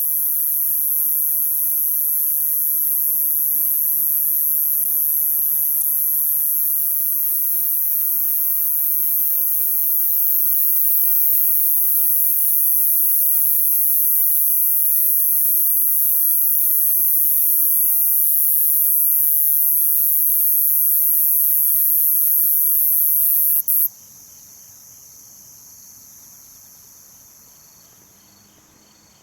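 Night insect chorus of crickets: a steady, loud, high-pitched trilling with a softer pulsed chirping beneath. The loud high trill stops abruptly near the end, leaving only the fainter pulsed chirping.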